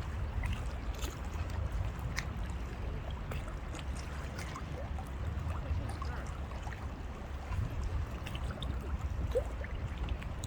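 Outdoor river ambience: moving water with a steady low rumble underneath, and a few faint scattered clicks and short chirps.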